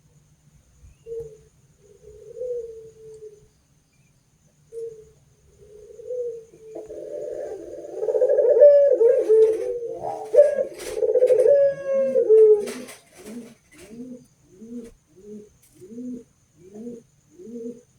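Doves cooing, zebra dove (perkutut) and puter doves. Soft separate coos at first, then a loud overlapping run of cooing about halfway through, followed by a regular series of short falling two-note coos, about one and a half a second.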